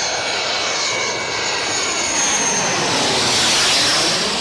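Jet airliner passing close to the runway, its engine noise building to a peak about three and a half seconds in and then starting to fade.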